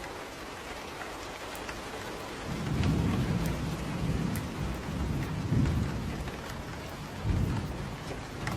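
Steady rain falling with scattered drips, and a low roll of thunder that swells in a few seconds in, rumbles in several surges and dies away near the end.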